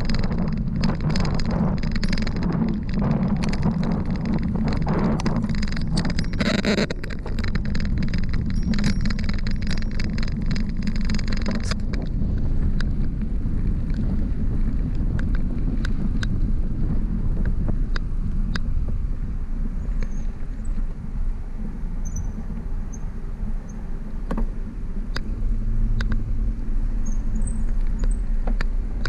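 Steady low rumble of wind and road noise on a bicycle-ride microphone. Frequent rattling clicks for the first twelve seconds or so thin out to only occasional ticks after that.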